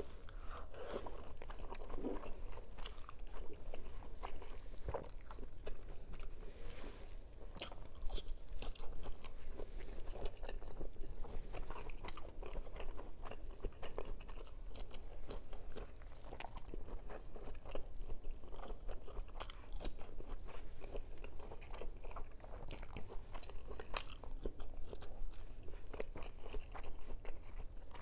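A person biting and chewing food close to the microphone, with a steady run of crunching and frequent sharp, irregular mouth clicks.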